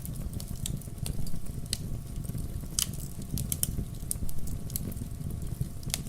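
Wood fire burning in a fireplace: logs crackling and popping in sharp, irregular snaps over a low, steady rumble of flame.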